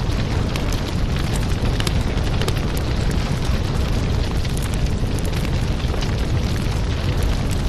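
Crackling wood fire: scattered sharp crackles over a steady low rumble.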